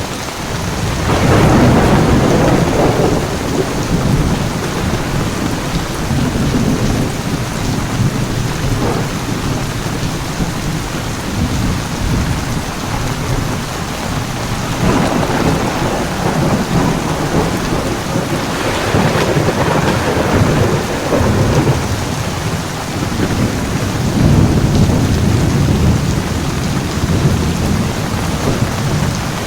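Heavy rain falling steadily under a thunderstorm, with rolling thunder rumbles that swell up about a second in and several more times in the second half.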